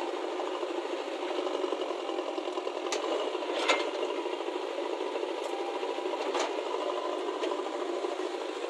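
Steady rattling machine-engine sound of a cartoon JCB, with a few brief clicks.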